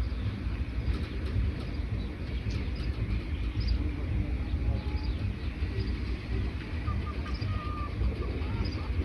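Wild birds chirping, with short whistled calls in the second half, over a steady low rumble.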